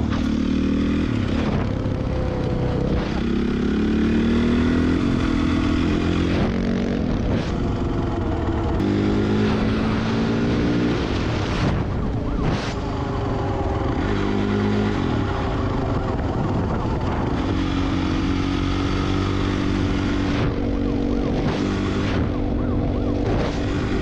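Dirt bike engines revving hard and shifting through the gears. The pitch climbs, drops at each shift and climbs again, over and over.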